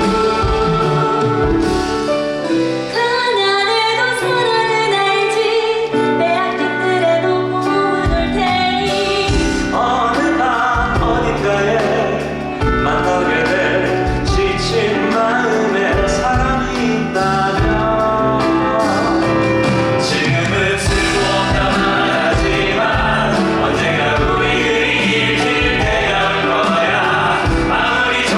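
Musical theatre cast singing an encore song together, male and female voices over the show's accompaniment.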